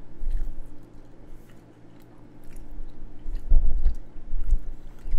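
A person biting into and chewing a BBQ-glazed chicken drumstick whose glaze has turned a little crispy, with soft mouth clicks and a few heavier low thumps about three and a half seconds in.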